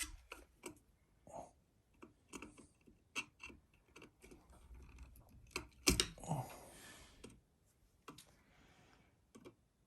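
Scattered light clicks and taps of small parts and screws being handled while a ceiling fan is assembled, with a sharper click about six seconds in followed by a brief rustle.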